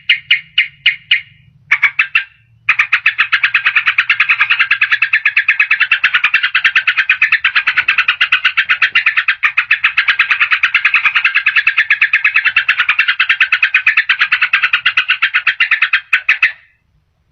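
Yellow-vented bulbul (trucukan) chattering: a short run of quick notes, then after a brief pause a long, fast, unbroken rattle of notes lasting about fourteen seconds, which stops shortly before the end.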